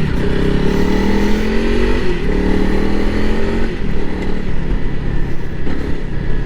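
Honda CRF300L Rally's fuel-injected single-cylinder engine accelerating up through the gears: the engine note climbs, then drops at each upshift, once right at the start, again about two seconds in and again near four seconds in, before running steadier.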